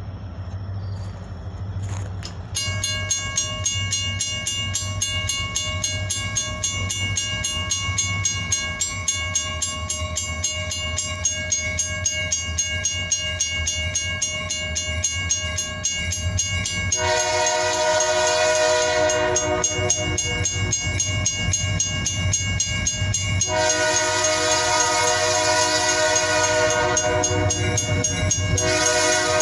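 A diesel locomotive's multi-tone air horn blows as the train approaches. A steady, pulsing ringing starts about two and a half seconds in, and the horn then sounds a long blast about two-thirds of the way through and a longer one near the end, over a low rumble that grows louder.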